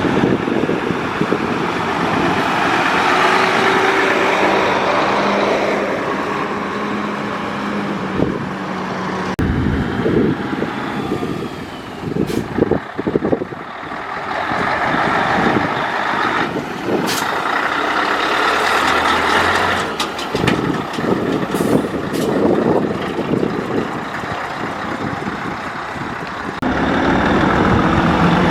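Heavy trucks in a convoy driving past one after another, engines running over tyre and road noise. A handful of short, sharp sounds come in the middle stretch.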